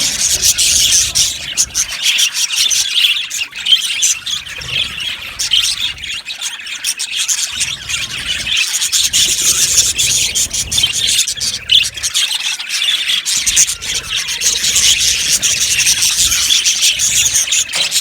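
A flock of budgerigars chattering continuously, a dense mix of many high, squeaky chirps and calls overlapping.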